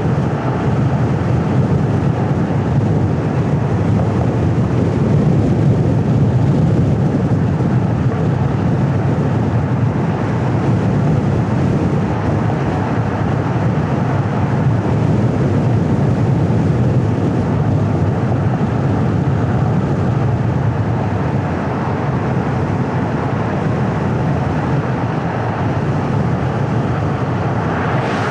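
A car driving at a steady pace: continuous road and wind rumble from the tyres and air, with no clear engine note.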